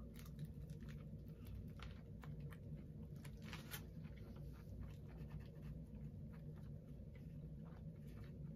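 A person chewing a bite of double cheeseburger with the mouth closed: faint, scattered wet mouth clicks over a low steady hum.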